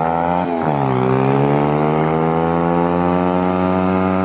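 125cc pit bike engine accelerating under load. The pitch dips sharply about half a second in as it shifts up a gear, then climbs slowly and steadily as the bike picks up speed.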